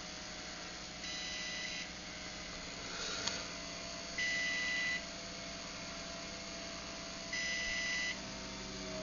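Craftsman garage door opener running on battery backup power: a steady motor hum with a beep three times, about every three seconds, the alert it gives while running on battery. There is a single click about three seconds in, and near the end the hum starts to drop in pitch.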